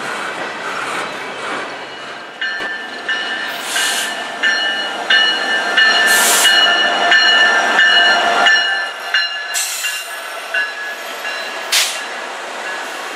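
Freight train rolling past: a steady rumble and rail noise, joined about two seconds in by several high, steady ringing tones that last until near the end. Short sharp hissing bursts come a few times along the way.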